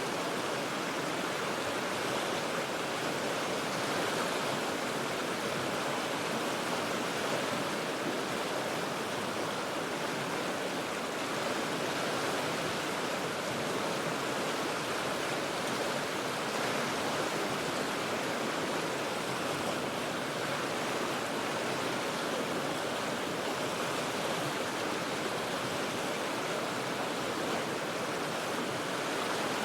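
Cheat River rapids rushing steadily, a constant even roar of moving water heard from high above on the bank.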